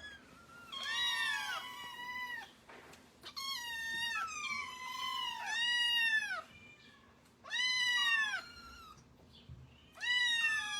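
A domestic cat meowing about six times, each call a drawn-out meow that rises and then falls in pitch, with short pauses between calls.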